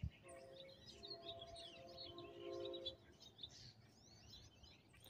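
Faint birds chirping in short, scattered calls. For the first three seconds a faint steady chord of several held tones sounds under them.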